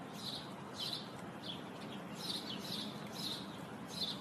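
A bird chirping: short, high, falling chirps, roughly two a second and somewhat irregular, over a steady background hiss.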